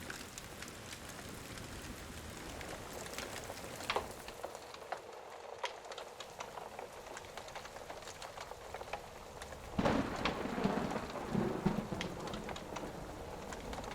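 Thunderstorm ambience: steady rain with scattered sharp ticks. About ten seconds in there is a sudden, louder burst of thunder that lasts a couple of seconds.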